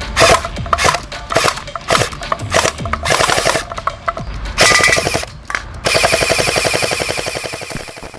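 Gel blaster toy gun firing water gel beads: a string of single shots, then a short rapid burst, then a longer full-auto burst of about two seconds that fades out near the end.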